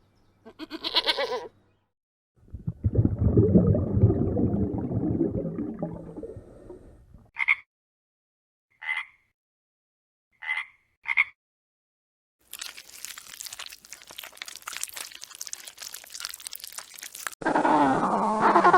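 A string of separate animal calls: a short pitched call, a few seconds of low rough calling, four short high chirps about a second apart, then a noisy stretch and a wavering pitched call near the end.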